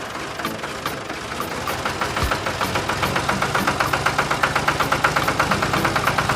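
Small motor-driven mechanism running with a rapid, regular clicking, about ten clicks a second, over a low hum; the clicking becomes steadier and more distinct about three seconds in.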